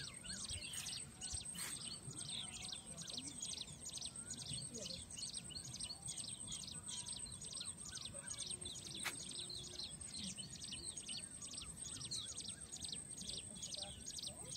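Birds chirping: a fast, regular run of short high chirps, about three a second, with a thin steady high whine underneath and a faint low background hum.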